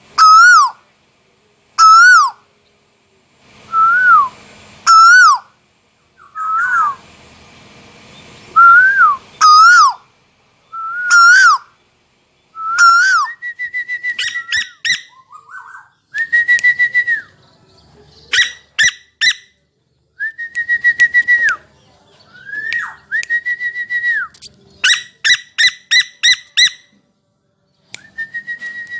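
Burung tuwu, a scops owl, calling with loud whistled notes: at first single notes that rise and then fall, about one a second, then from about halfway a higher, held note alternating with quick runs of short notes.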